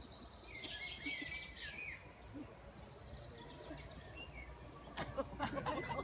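Songbird singing outdoors, a warbling phrase about a second in. Near the end comes a quick run of clicks and knocks.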